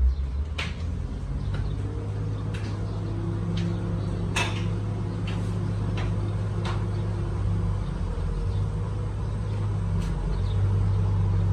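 Komatsu six-cylinder diesel engine running steadily after its rebuild, with a handful of short metallic clicks or knocks over the engine note.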